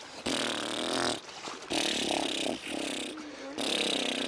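Three bursts of growling, voice-like sound, each about a second long, like a person making engine noises with their mouth.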